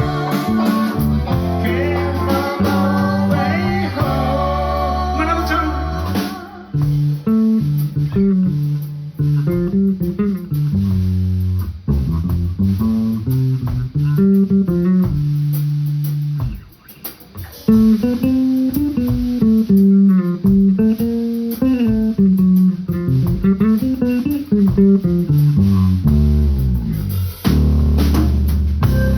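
Live band music with guitar and bass. A full, dense passage gives way about six seconds in to a sparser line of single notes with short breaks, with a brief drop-out partway through.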